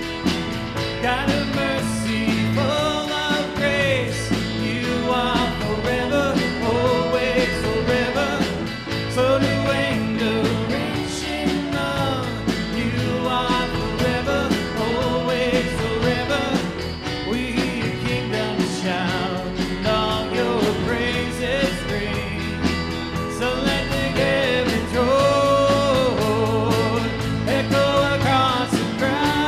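Worship band music: guitar-led band accompaniment with a sung melody over it.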